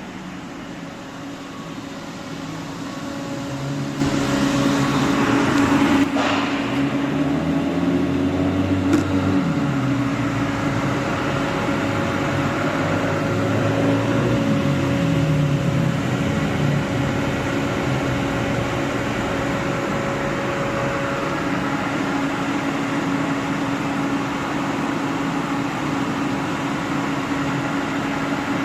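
1.6 THP turbocharged four-cylinder petrol engine running in limp mode, with a steady hum and whine throughout. Its pitch rises and falls several times over the first half, then settles to an even drone.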